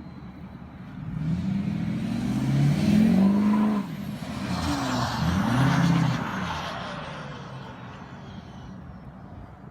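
Ford Powerstroke V8 turbo-diesel with a 5-inch straight-pipe exhaust revved twice, each rev climbing and then falling back to idle, with a high turbo whistle trailing off as the revs drop.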